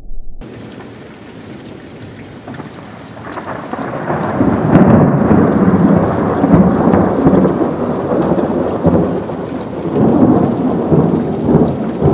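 Thunder rolling during a rainstorm. Rain hisses steadily, then a long rumble builds from about three seconds in, stays loud, and swells again near the end.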